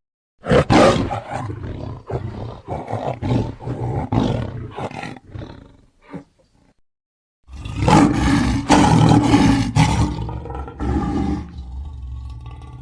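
Smilodon (sabre-toothed cat) sound effect: big-cat roars. Two long, loud roars, the first starting about half a second in and the second after a short silence near the middle, trailing off into a quieter, lower sound near the end.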